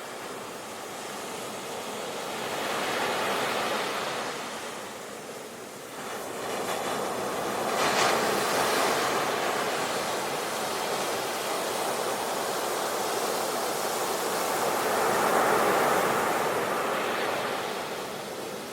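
Ocean waves breaking on a shore, the surf rising and falling in slow swells, with bigger waves cresting about three seconds in, about eight seconds in and near the end.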